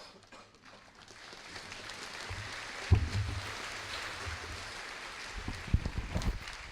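An auditorium audience applauding, building over the first second or two, holding steady and dying away near the end. Low thumps through the PA about three seconds in and again near the end, from the microphone being handled.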